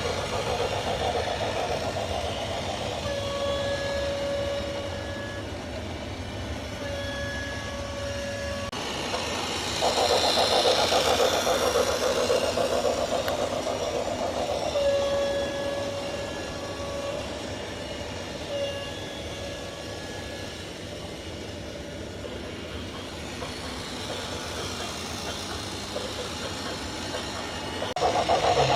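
A heavy vehicle's engine running, with several held horn blasts of about one to two seconds each.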